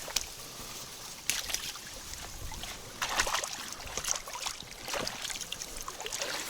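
Water lapping and splashing against the side of a small fishing boat, with scattered short splashes or rustles.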